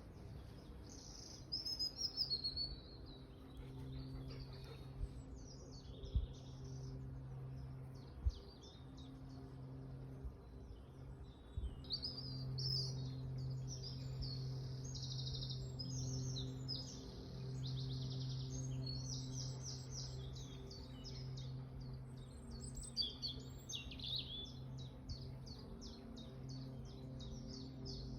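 Several songbirds singing, with chirps and fast repeated trills overlapping one another. A steady low hum runs underneath.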